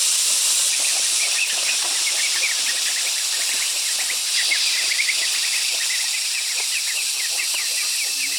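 Chicks peeping: many short, rapid high chirps, over a steady high hiss.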